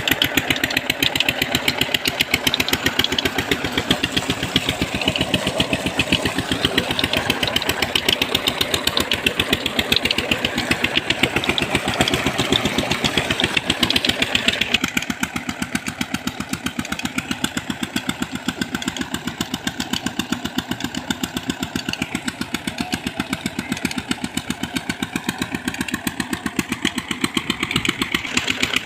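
Old Petter diesel engine running steadily on a tube well pump, with a fast, even exhaust beat. The sound turns slightly duller and quieter about halfway through.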